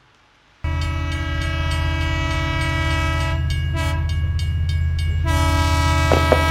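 Train sound cutting in abruptly: a steady low rumble under a held, horn-like chord that drops out briefly about three and a half seconds in, with a few clicks near the end.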